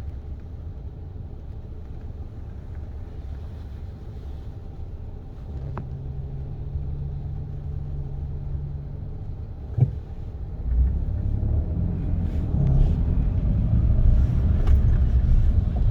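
Low rumbling road noise of a car on the move, with a steady low hum for a few seconds in the middle and two sharp knocks; the rumble grows louder and rougher in the last five seconds.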